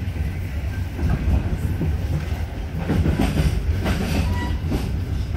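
Diesel multiple-unit local train running at speed, heard from inside the carriage: a steady low rumble, with wheels clacking over rail joints a few times in the second half.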